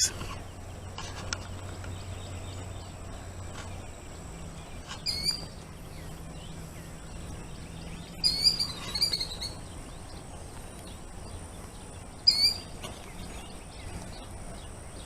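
Killdeer calling: a few short, high calls about five seconds in, a quick string of them around eight to nine seconds, and one more near twelve seconds. They are the bird's alarm calls as a person comes near her nest.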